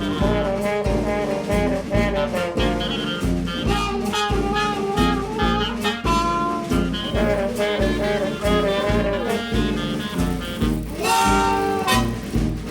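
Upbeat jazzy swing background music: a steady bass beat about two to the second under brass and saxophone melody lines.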